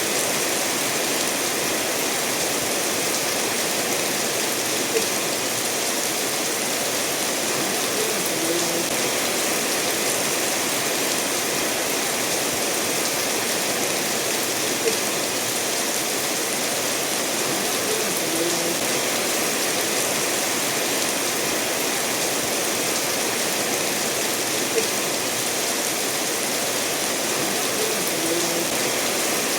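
Steady rain falling, mixed with river water rushing over stones, an even hiss throughout. A few light ticks come about every ten seconds.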